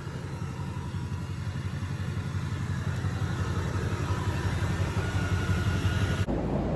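Duramax 6.6 L V8 turbo-diesel engine running steadily, a low rumble that grows gradually louder; about six seconds in it changes abruptly to a different steady low sound.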